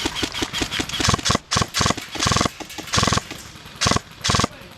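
Airsoft guns firing: a run of shots about six a second, then six short, loud bursts of rapid full-auto fire.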